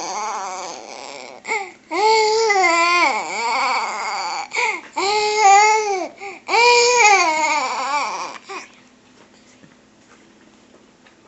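Baby making his funny noise: a run of long, wavering, cry-like vocal squeals, about four of them, that stop about nine seconds in.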